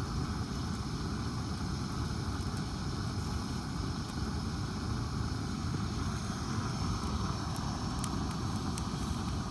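Steady low rumbling wind buffeting the microphone, with a few faint ticks near the end.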